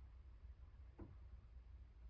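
Near silence: low room rumble, with one faint tap about a second in.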